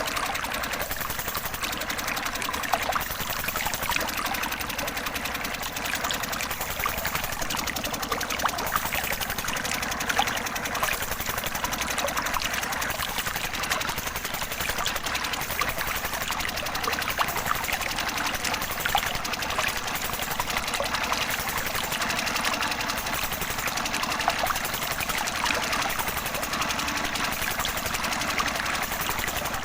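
A small motor whirring steadily with many light ticks, as water from a miniature pump model pours and trickles.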